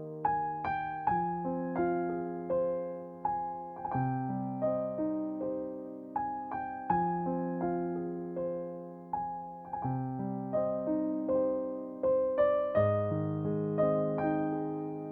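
Background music: a slow, gentle electric piano piece of struck notes and sustained chords.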